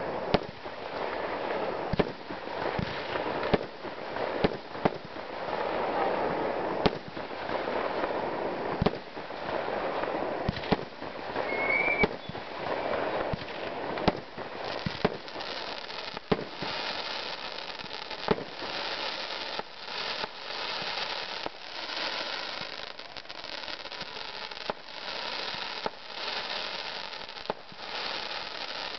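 Fireworks going off: a string of single sharp bangs a second or two apart, over a continuous crackling hiss that becomes brighter and pulses in the second half.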